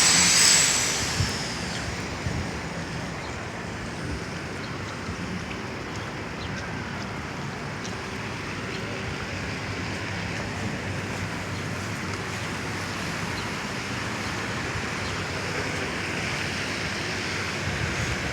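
Steady hiss of rain and tyres on the wet street, with a sharp hiss in the first second that fades away.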